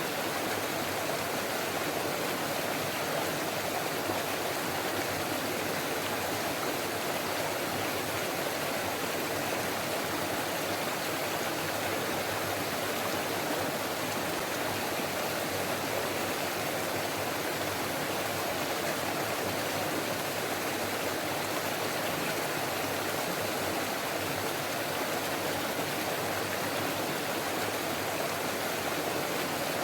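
A forest stream babbling and splashing steadily over rocks, an even rush of running water with no change throughout.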